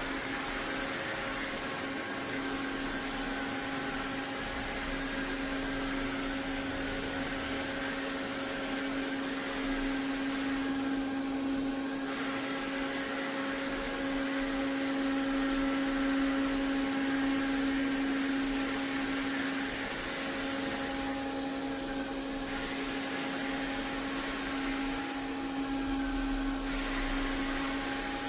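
iRobot Roomba Combo robot vacuum running, a steady motor hum with a constant low tone and a few fainter higher tones over an even hiss.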